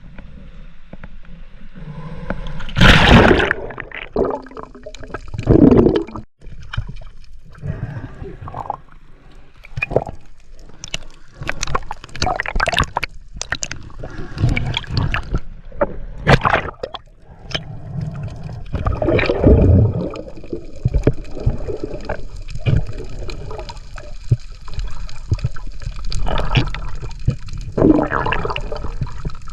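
Seawater sloshing and splashing in irregular strokes, with two louder splashes about three and six seconds in.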